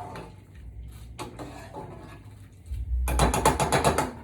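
A spoon stirring pasta in a pot of boiling water: a few light knocks, then from under three seconds in a fast, rhythmic clatter of the spoon against the pot, about eight strikes a second.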